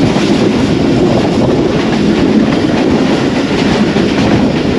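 Passenger train running at speed, heard from aboard a coach: a loud, steady rumble with wheels clattering over the track.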